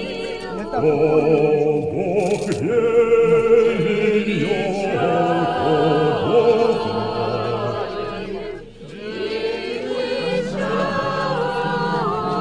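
Choir singing Orthodox church chant, several voices held together in long sustained phrases, with a brief break for breath about two-thirds of the way through.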